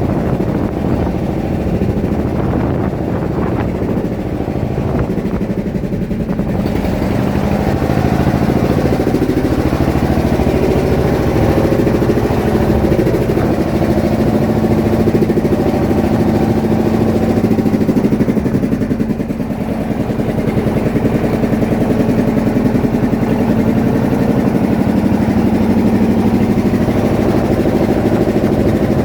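Fishing boat's engine running steadily, a loud, fast-pulsing hum, growing slightly louder after the first few seconds and dipping briefly about two-thirds of the way through.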